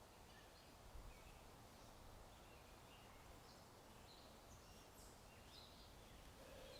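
Faint birds chirping now and then, short high calls scattered through, over a soft, steady outdoor ambience of wind.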